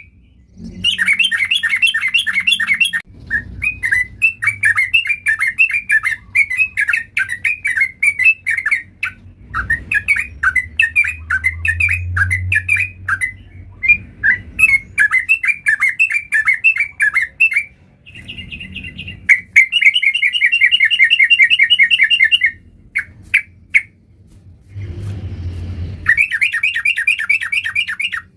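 Yellow-vented bulbul (trucuk) singing in long runs of rapid, chattering notes, several bouts a few seconds each with short breaks between them.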